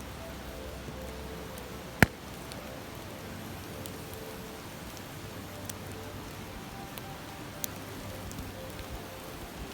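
A stream flowing steadily beside a crackling wood campfire, with one loud, sharp pop from the fire about two seconds in and a few faint snaps later.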